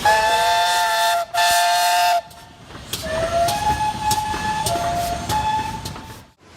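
Steam locomotive whistle sounding a two-note chord: two blasts in the first two seconds, then a longer blast from about three seconds in that starts low and changes pitch, with sharp clicks. It cuts off abruptly near the end.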